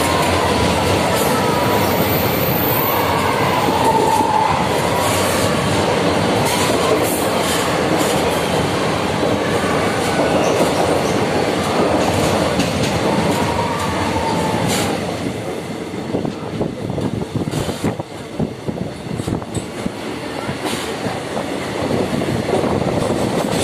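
Passenger train running, heard from an open carriage window while passing through a tunnel: a loud, steady rumble of wheels on rails with thin wheel squeals in the first half. About two-thirds of the way through the noise drops and turns uneven, then grows again near the end.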